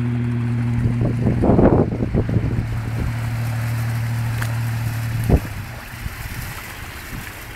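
A recovery vehicle's engine runs at a steady pitch as it tows, with water splashing and sloshing. About five seconds in the engine note stops with a knock, leaving the sound of water moving.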